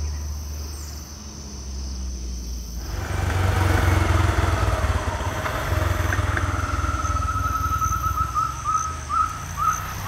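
Forest sound with a steady high insect buzz and a low rumble that grows louder about three seconds in. From about two-thirds of the way through, a bird calls a fast run of short rising notes that slows to about two a second.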